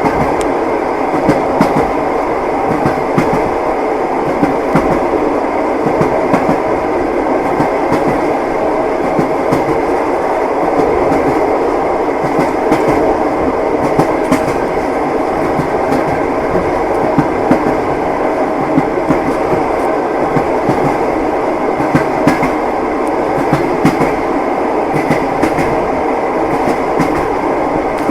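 Train wheels clacking on the rails as the carriage rolls along: a steady rumble with frequent short clicks and knocks.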